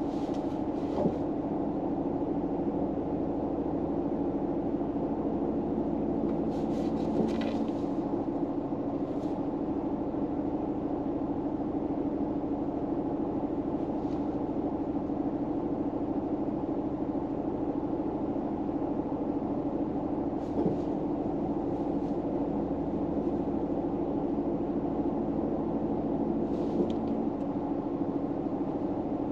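Steady low hum of a car's cabin, like an idling engine heard from inside, with a few faint brief rustles every several seconds.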